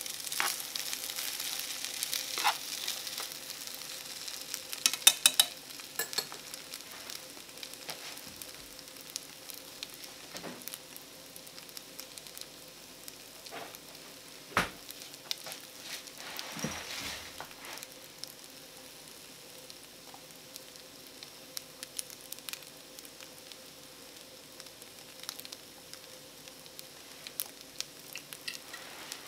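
Egg fried rice sizzling in a small frying pan, with chopsticks stirring and clicking against the pan in the first few seconds. The sizzle then settles into a quieter, steady crackle with scattered ticks and one sharp knock about halfway through.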